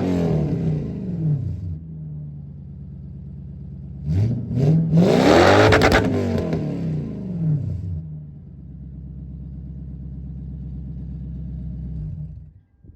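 1993 Lexus LS400's 4.0-litre V8 through a catless exhaust (gutted cats, Y-pipe, single generic box muffler) being revved from idle. Its pitch falls back from a rev at the start and it idles. About four seconds in come two quick throttle blips and then a longer rev, which falls back to a steady idle. The sound cuts off suddenly near the end.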